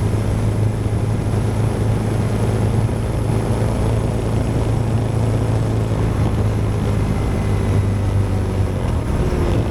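Honda Transalp XL650V V-twin engine running at a steady cruise, a constant low hum under wind and road noise.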